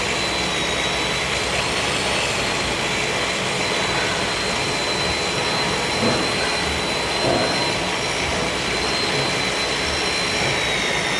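Lathe bed grinding machine running steadily, a high, steady whine over a strong hiss, with two brief louder moments about six and seven seconds in.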